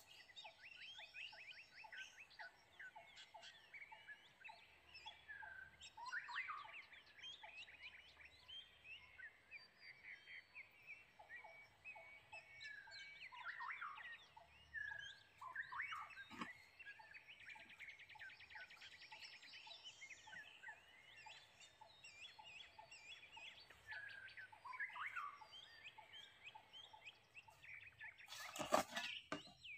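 Birds chirping and calling, many short rising and falling notes, with a rapid even trill about two-thirds of the way through. A brief loud knock or rustle near the end.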